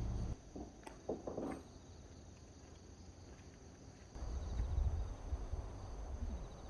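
Insects trilling steadily at a high pitch, with a few soft knocks about a second in and a low rumble starting a little past the middle.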